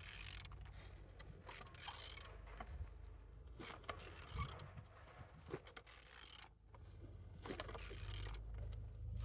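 Removed car engine, code 13J29, being turned over by hand, giving irregular mechanical clicks and scraping. It turns well, a sign that it is not seized.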